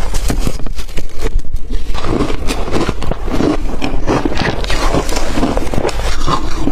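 Close-up crunching and chewing of blender-crushed ice: dense, irregular crackling bites that keep going, with a short lull about one and a half seconds in.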